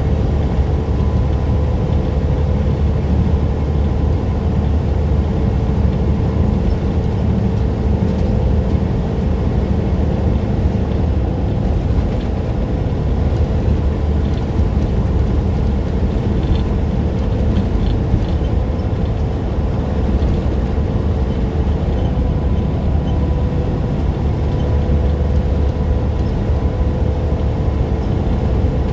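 Semi-truck driving at steady speed: a constant run of diesel engine and road noise, heaviest in the low end, with a steady hum.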